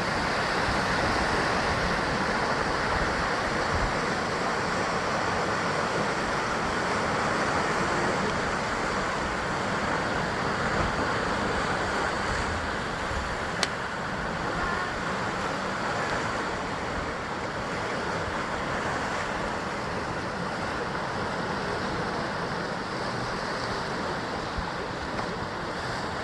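Sea waves surging and breaking against the rocky shore in a continuous wash of surf, swelling and easing slightly, with one sharp click about halfway through.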